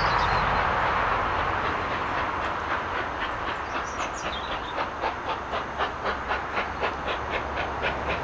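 Train running past on the rails: a steady rumble, then from about two seconds in a regular clicking of wheels over rail joints, about three to four clicks a second.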